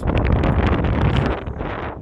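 Strong wind buffeting the microphone: a loud, gusty rumble that eases slightly near the end.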